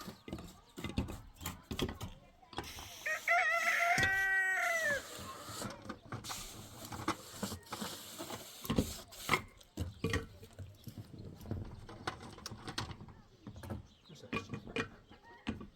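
A rooster crows once, a single drawn-out call of about two seconds starting about three seconds in. Scattered short knocks and clicks sound throughout.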